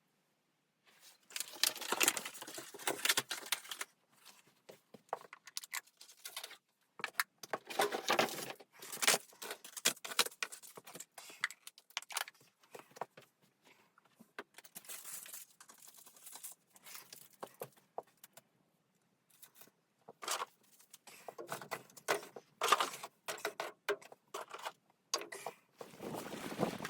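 Irregular rustling and clinking of things being handled, coming in spells of a few seconds with short pauses between them.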